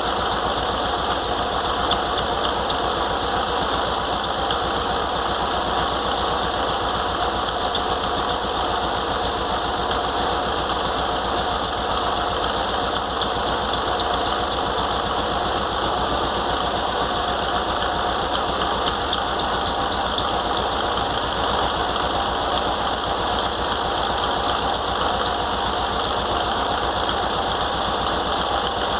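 Volkswagen Beetle's air-cooled flat-four engine running steadily, its alternator and cooling fan just cleaned and refitted; a little noise remains, which the owner thinks probably comes from a worn bearing inside the alternator.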